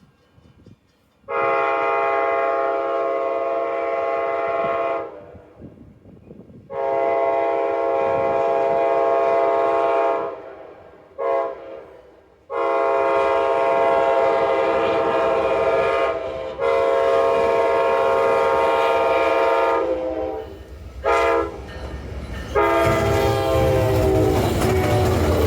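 Locomotive multi-chime air horn sounding the grade-crossing signal: two long blasts, a short one, then a long drawn-out blast with brief breaks. Near the end the low rumble of the locomotive and train rolling past comes in under the horn.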